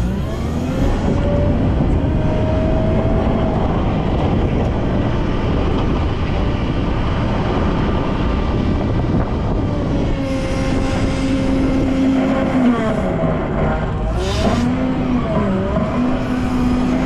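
Volvo L90F wheel loader's diesel engine working while clearing snow: it revs up about a second in, holds steady, then drops and revs up again about two thirds of the way through.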